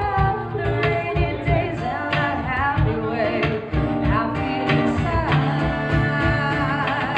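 Female vocalist singing a ballad over acoustic guitar and acoustic hand percussion, with a steady beat of low thumps and held, wavering vocal notes.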